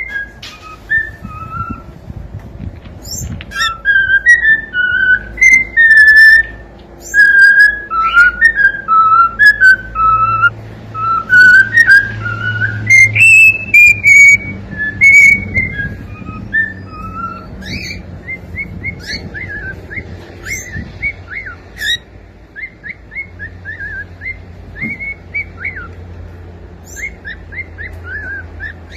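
Cockatiel whistling its song: a run of gliding, warbling notes, turning about two-thirds through into a string of short, quick chirped notes.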